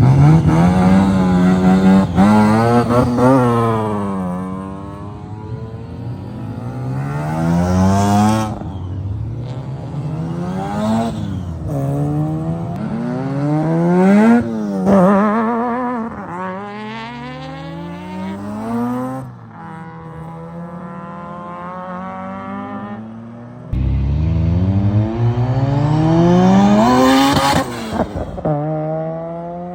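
Car engine revving hard again and again, its pitch climbing with each rev and dropping back, with a few sudden cut-offs.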